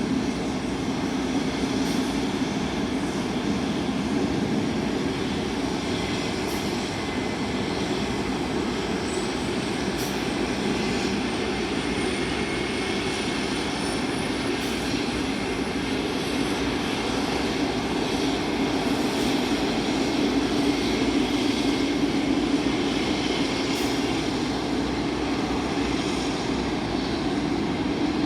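Jet airliner engines running with a steady rumble and a faint high whine that slowly rises partway through.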